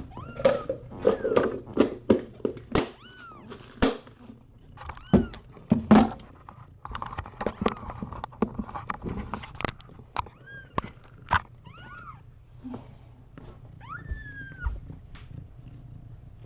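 Young kittens mewing: short, high, arching squeaks repeated through, with one longer mew near the end. A run of clicks and knocks sounds over the first half.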